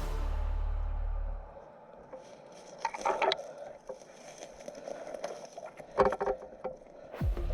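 A deep steady bass tone for about a second and a half, then a quieter stretch with two short clusters of sharp clicks and rustles, about three and six seconds in, and the deep bass returning near the end.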